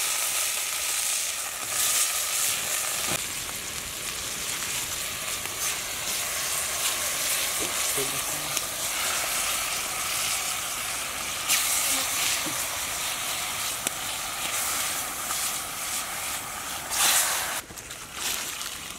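Chopped green herbs and a large piece of fish frying in hot oil in a metal pot over a wood fire: a steady sizzle that cuts off shortly before the end.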